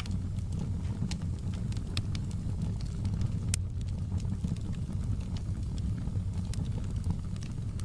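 Wood fire burning in a fireplace: a steady low rumble of flames with scattered sharp crackles and pops, one louder pop about three and a half seconds in.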